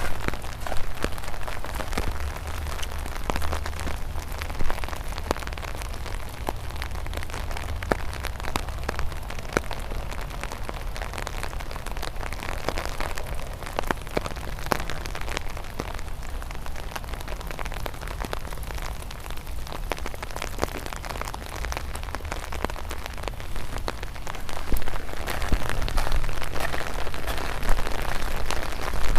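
Light rain falling, with many scattered sharp drop ticks over a steady hiss; it grows louder about 25 seconds in.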